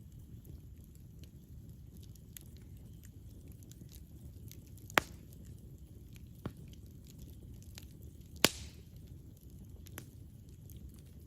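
Campfire burning with a low steady rumble and scattered small crackles, and two loud sharp pops, about five seconds in and again about three seconds later.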